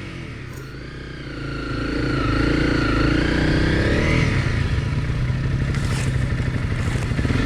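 Single-cylinder four-stroke off-road engine running under way. It gets louder and climbs in pitch about a second and a half in, then rises and falls with the throttle.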